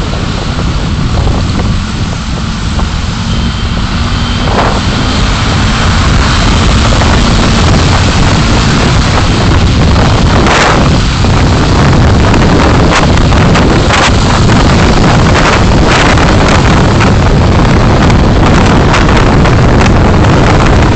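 Steady, loud rumble of a car driving, road and wind noise picked up by a dashcam, with frequent short clicks or rattles in the second half.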